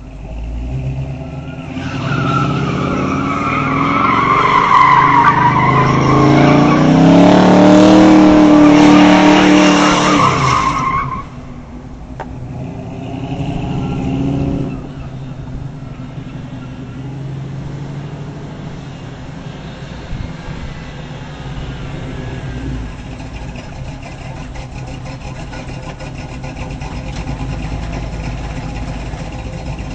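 1979 Chevrolet Camaro engine revved hard for about nine seconds, pitch rising and falling, with a loud high squeal over it. It revs briefly once more, then settles to a steady idle for the rest.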